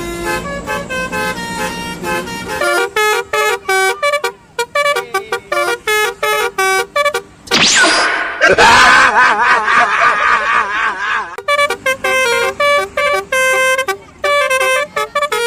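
Telolet-style multi-tone bus horn playing a rapid melody of short tooting notes. About eight seconds in a rising swoop is followed by a few seconds of warbling tones, and then the short notes resume.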